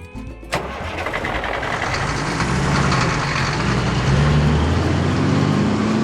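Cartoon vehicle engine sound effect that starts suddenly about half a second in and runs, a low engine hum wavering in pitch under a loud hiss.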